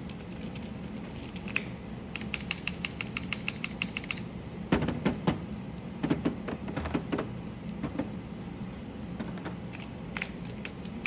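Mechanical keyboard keys being pressed: a fast, even run of sharp clicks about two seconds in, then louder, deeper clacks around the middle, and a few scattered clicks near the end.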